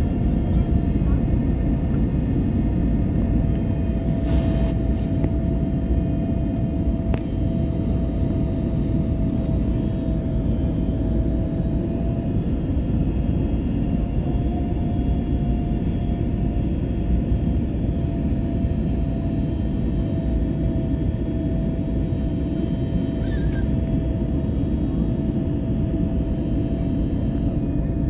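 Airliner in flight heard from the cabin: a steady low rumble of engines and rushing air with one steady whine held over it, and two brief hisses, about four seconds in and near the end.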